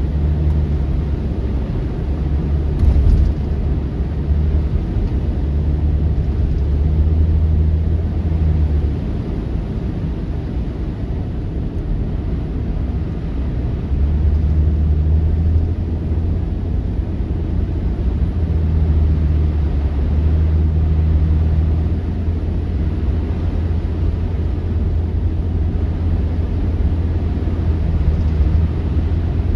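Low, steady rumble of a running engine, its hum swelling and easing every few seconds.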